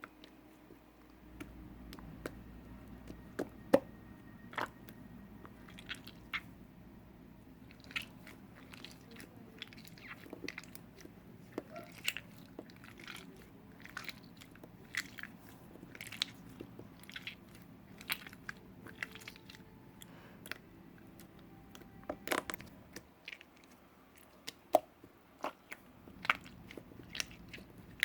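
A run of sharp, irregular crunching clicks, a few a second, over a faint steady low hum that drops out for a couple of seconds near the end.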